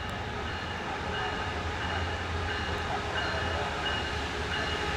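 Passenger train at a station with its diesel rumbling low and a bell ringing steadily, a little under twice a second.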